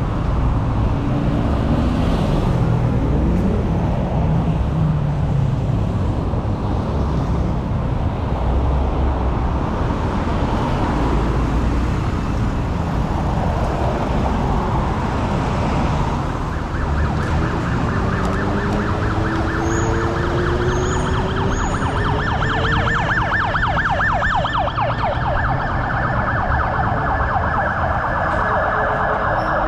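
An emergency vehicle's siren sounding over steady road traffic noise. From a little past halfway a fast pulsing tone and rising wails stand out.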